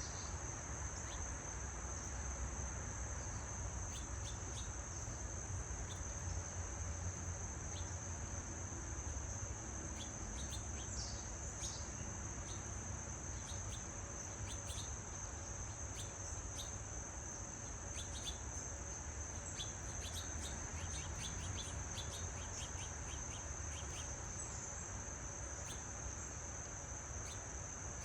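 Steady high-pitched insect chorus, cricket-like, with scattered short bird chirps and a steady low rumble underneath.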